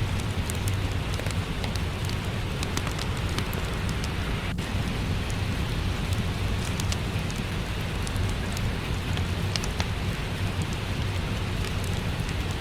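Steady rain mixed with a crackling wood fire: a constant hiss and low rumble, with small sharp crackles scattered throughout.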